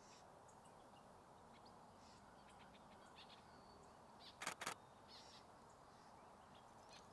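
Nikon Z6II camera shutter firing twice in quick succession about four and a half seconds in, over faint scattered bird chirps and a low outdoor hiss.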